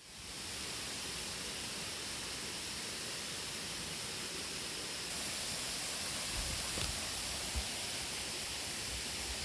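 Steady rushing of stream water, a constant even hiss that fades in at the start and grows a little louder about five seconds in, with a few faint low knocks.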